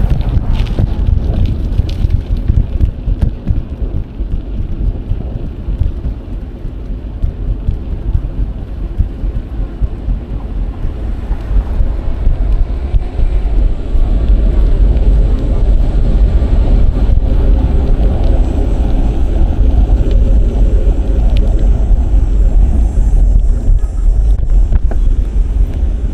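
Wind rumbling on an action camera's microphone while riding a bicycle, with road noise mixed in; it grows louder about halfway through.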